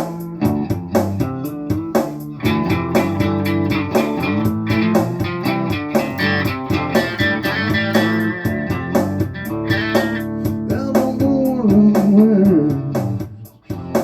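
Instrumental blues-rock band music: electric guitar and bass guitar playing a steady rhythm, with a bending lead guitar line about ten seconds in and a short break just before the end.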